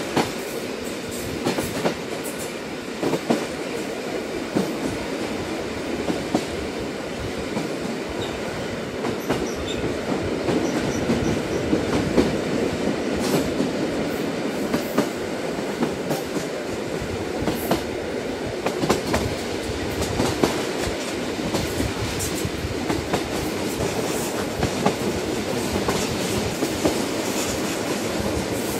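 Train running on rails: a steady rumbling noise with irregular sharp clicks and knocks from the wheels and carriages.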